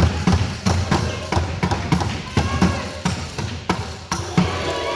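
A fast run of dull thumps, about three a second, stopping near the end, with voices faintly behind.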